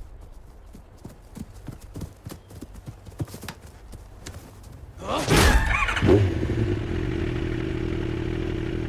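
Television sound effects: scattered light taps like footsteps, then about five seconds in a loud whoosh that falls in pitch, a second hit, and a steady humming drone.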